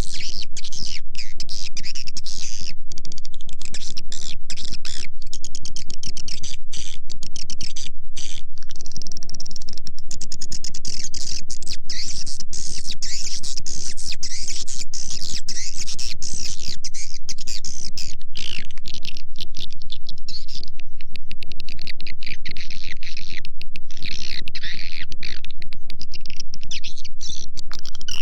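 Swiftlet lure recording: dense, unbroken high twittering and chirping of many edible-nest swiftlets, played at a constant level over a steady low hum. A sound of this kind is played to call a swiftlet colony into a nest house.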